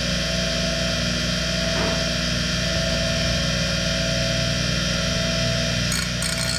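Old Black & Decker bench grinder running with its stone wheels spinning, a steady hum. Near the end a grinding hiss starts as the lawn mower blade meets the stone wheel.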